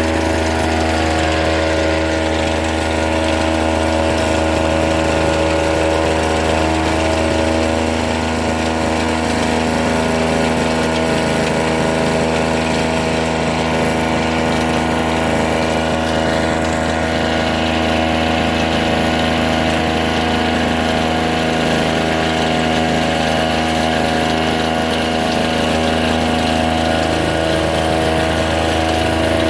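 Small two-stroke engine running steadily at constant speed.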